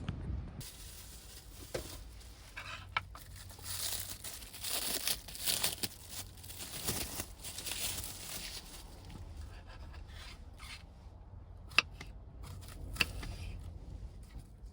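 Crinkling and tearing of something being handled by hand, busiest in the middle, with two sharp clicks near the end.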